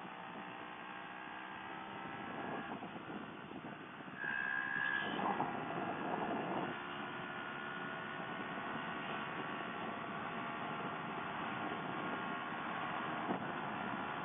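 CFMoto CL-X 700 parallel-twin engine running steadily at highway speed, with wind noise. The engine gets louder for a couple of seconds about four seconds in.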